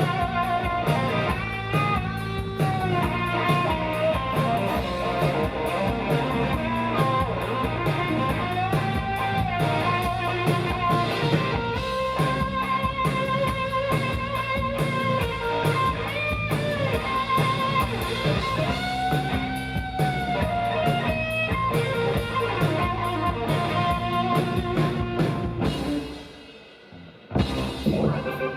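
Live rock band playing an instrumental passage: electric guitar with notes bending up and down over bass and drum kit. The band stops for about a second near the end, then comes back in together.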